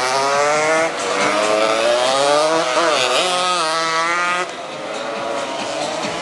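Several 200 cc racing motorcycles revving hard as they pass, engine pitch climbing again and again through the gears and dipping between. The sound drops noticeably about four and a half seconds in.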